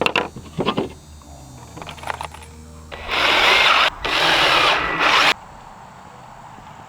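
Power drill driving a screw into a wooden board in two runs of about a second each, just after three seconds in, preceded by a few clicks and knocks of handling.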